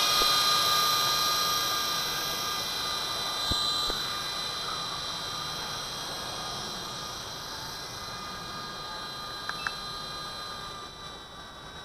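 V913 RC helicopter in flight: a steady electric-motor and rotor whine at a fixed pitch that slowly fades.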